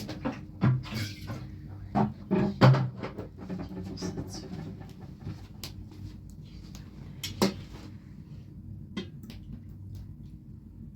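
Knocks and clatter of household objects being handled. Several come in quick succession over the first three seconds, then a few single clicks follow, all over a low steady hum.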